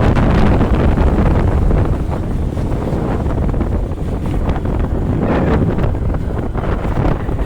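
Wind buffeting the microphone of a moving motorcycle, with vehicle and road noise underneath, slightly louder in the first two seconds.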